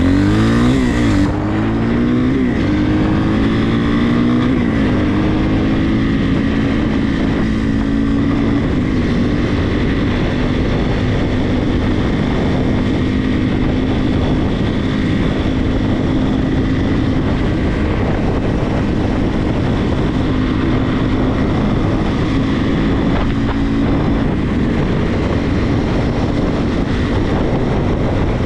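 Regulmoto TE enduro motorcycle engine pulling away. Its pitch climbs, drops at a gear change about a second in, and climbs again, then holds steady at cruising speed, over a steady rush of wind and road noise.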